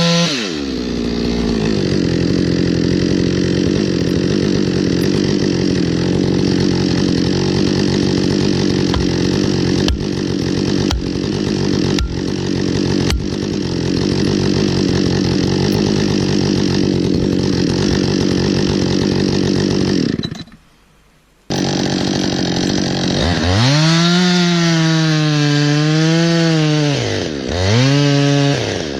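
Chainsaw cutting into wood: its engine pitch drops at the start, then it runs steadily under load. About two-thirds of the way through it briefly goes silent, then the saw's engine revs up and down in several swells.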